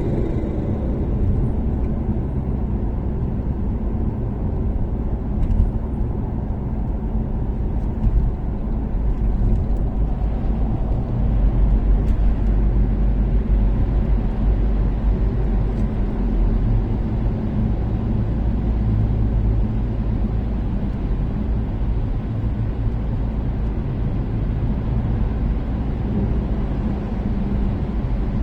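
Toyota Caldina ST246W's turbocharged 3S-GTE four-cylinder engine with an ATR Sports 2 exhaust, cruising steadily on an expressway: a continuous engine and exhaust drone over tyre and road rumble. There are a couple of brief thumps, about five and eight seconds in.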